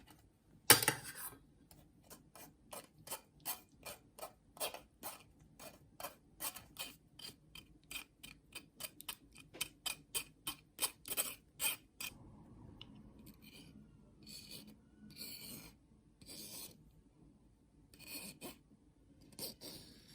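Cooked blueberry jam being scraped through a mesh strainer: quick rasping strokes, about two or three a second, that thin out to a few softer scrapes about halfway through.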